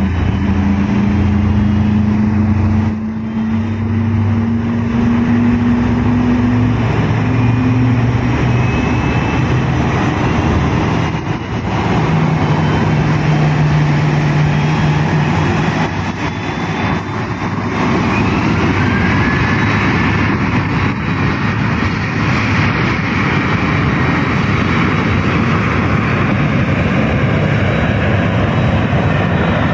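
Boeing 787-8 airliner's Rolls-Royce Trent 1000 jet engines running during pushback and start-up: a loud, steady rushing with a faint rising whine about two-thirds of the way through as an engine spools up. A low hum sits under it in the first several seconds.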